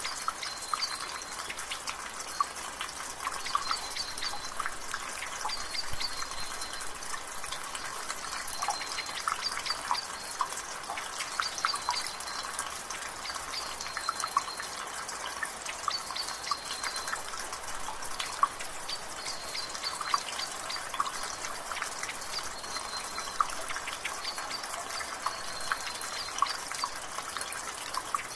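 Water dripping from a gutter in irregular drops over a steady hiss of rain and drizzle. A bird calls in the background, a short high note repeated about every two seconds.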